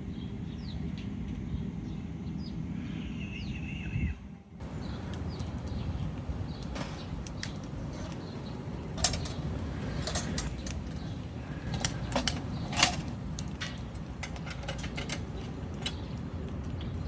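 Wood fire crackling with irregular sharp snaps. Birds chirp faintly in the first few seconds, then the sound changes suddenly about four seconds in.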